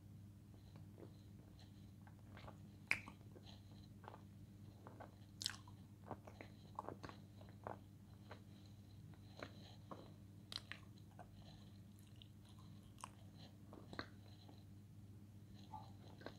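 Close-up chewing and crunching of dry edible clay (Turkestan light clay): scattered sharp crunches and mouth clicks, the loudest about three seconds in.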